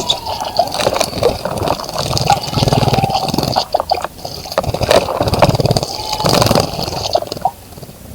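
A small bird splashing in a birdbath, in quick flurries of splashes and wing flicks through the water: one flurry about two seconds in and another about five seconds in.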